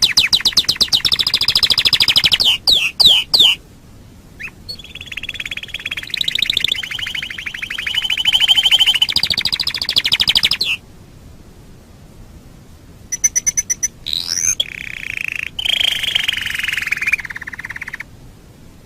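Domestic canary singing: phrases of fast, high trills and a few quick sweeping notes, broken by short pauses, with a faint hiss between phrases.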